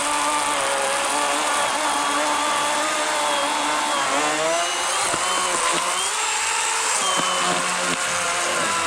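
Worx WG384.9 40-volt battery electric chainsaw with an 18-inch Oregon bar running and cutting through a poplar log. Its steady whine dips and recovers in pitch as it bogs under load, around the middle and again near the end.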